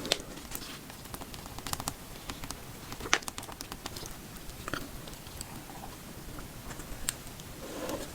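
Close-miked mouth sounds of chewing boba tapioca pearls: irregular small wet clicks and squishes, with a few sharper ones now and then.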